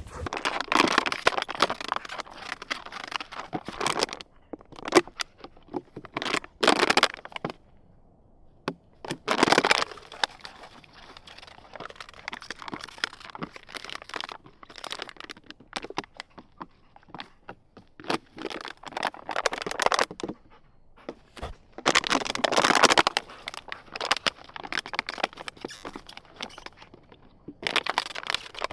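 Irregular bursts of crunching, crackling rustle, each a second or two long and several seconds apart, with quieter rustling between them.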